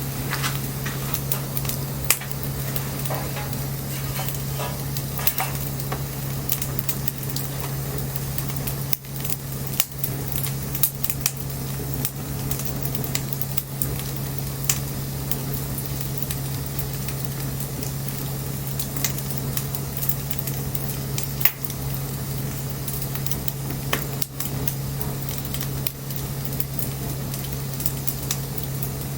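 Wood bonfire burning: a steady hiss with frequent sharp crackles and pops, over a constant low hum.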